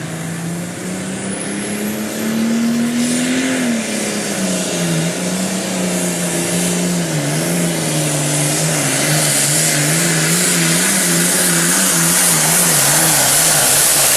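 Case IH 7220 Super Farm pulling tractor's diesel engine at full power, dragging the weight sled down the track. Its pitch climbs over the first few seconds, then drops and wavers up and down as the load builds, with a rising hiss.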